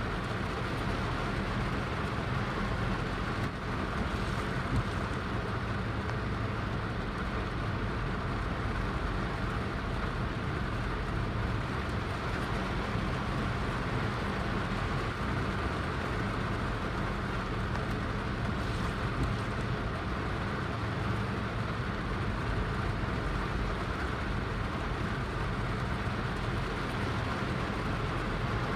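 Heavy rain falling steadily, an even rushing hiss with a deep rumble underneath.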